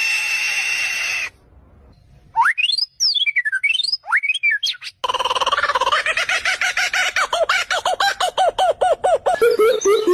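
Bird calls in several separate snippets: a held whistling call for about a second, then quick swooping whistles rising and falling, then a fast run of rapidly repeated notes that changes near the end to lower repeated notes.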